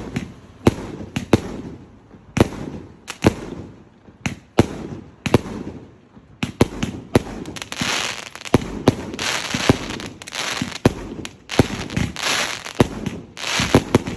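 Fireworks display going off: a rapid string of sharp bangs from bursting shells, which thickens from about halfway into a dense, continuous hiss and crackle between the bangs.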